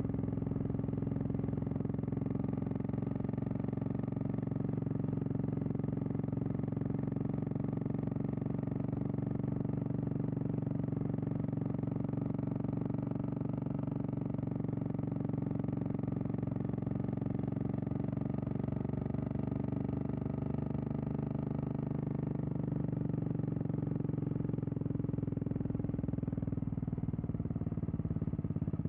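Royal Enfield Classic 350's single-cylinder engine running steadily at low revs, pulling the bike up a steep hill under load. It eases slightly a little after twenty seconds, then picks up again.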